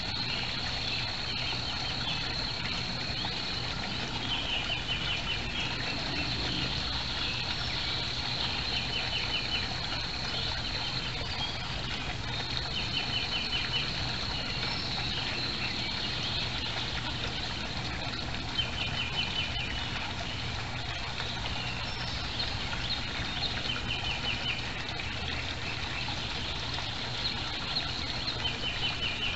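A songbird repeating a short phrase of evenly spaced notes every two to three seconds, over a steady high-pitched whine that drops out now and then and a steady low hum.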